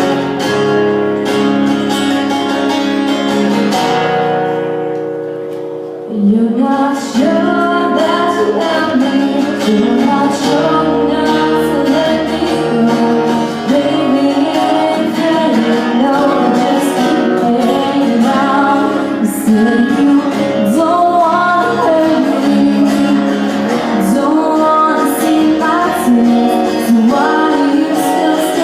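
A woman singing to a strummed acoustic guitar. The guitar plays alone at first and softens, and her voice comes in about six seconds in.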